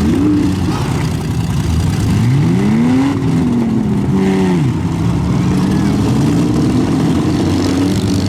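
Pickup truck engines revving hard in a demolition derby arena, their pitch rising and falling several times over the steady rumble of other trucks running.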